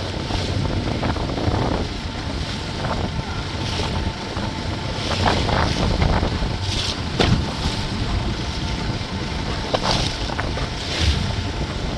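Motorboat under way at sea: wind buffets the microphone over a steady engine run and rushing water, with a few short, sharp hits along the way.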